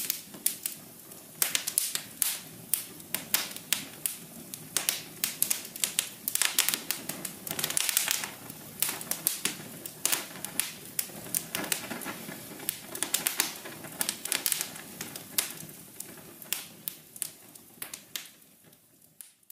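Fire crackling: irregular sharp pops and snaps over a low steady rush of flame, fading out near the end.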